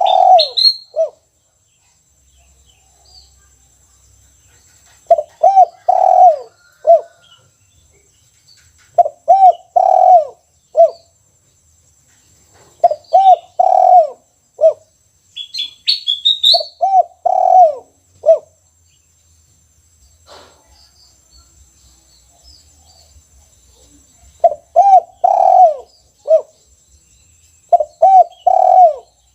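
Spotted dove (tekukur) cooing over and over, about seven phrases: each is a few low coos ending in a single short clipped 'kuk' note, the 'kuk one' song type. Faint higher chirps of a small bird come in near the start and about halfway.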